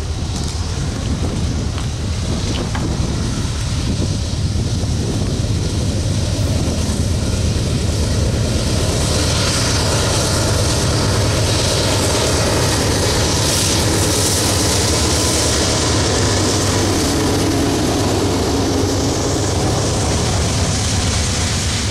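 A Canadian Pacific diesel locomotive hauling a freight train rumbles steadily as it approaches and passes, then loaded covered hopper cars roll by on the rails. The rushing hiss grows loudest in the middle, as the lead units go past, with some wind on the microphone.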